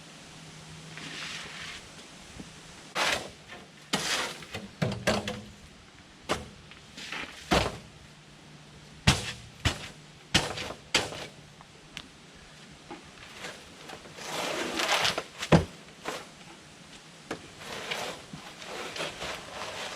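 Irregular knocks and thumps, about a dozen of them, with a short scraping noise just before the loudest knock near the three-quarter mark.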